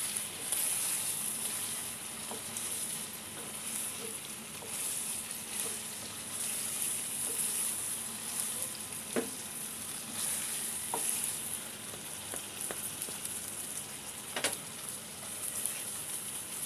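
Chicken in a thick masala sizzling and frying in ghee and oil in a nonstick pan while a wooden spatula stirs it, with a few light knocks of the spatula on the pan. The water has cooked off, so the meat is now frying in the fat that has risen to the top.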